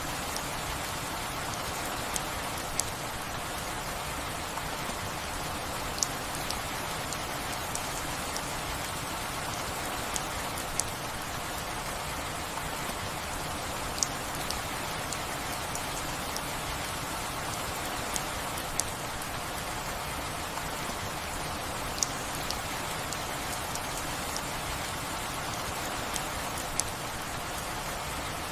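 Steady rain falling, an even patter with single louder drop clicks every couple of seconds.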